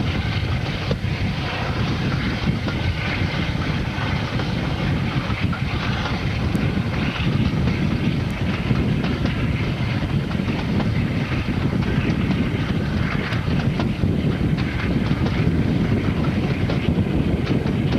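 Diesel-hauled passenger train running, heard from inside a coach with the window open: a steady rumble of wheels on rail with scattered clicks from the rail joints.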